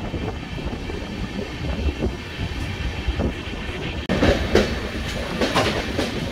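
Passenger express train running on the line, its wheels rumbling steadily on the rails. About four seconds in, a louder clatter of wheel clicks joins in, a few sharp clacks over rail joints.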